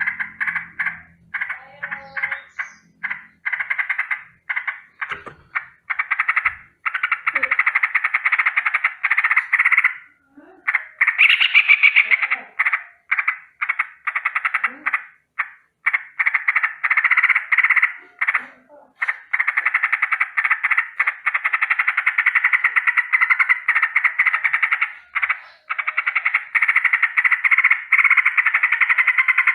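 Yellow-vented bulbul giving its rapid rolling, rattling alarm call, in short runs broken by brief gaps at first, then running almost without a break through the second half.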